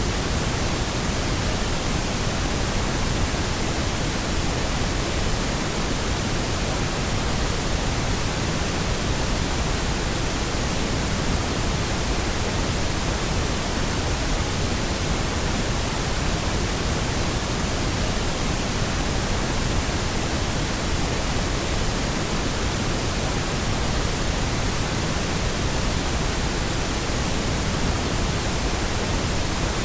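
Steady synthetic pink noise: an even, unchanging hiss across the whole range, fuller in the lows than white noise.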